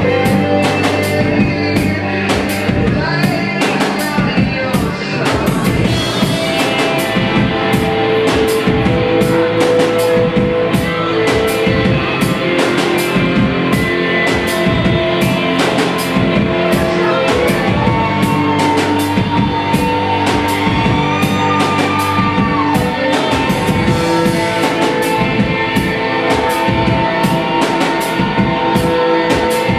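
Rock band playing live: a drum kit keeps a steady beat under electric guitars holding sustained notes.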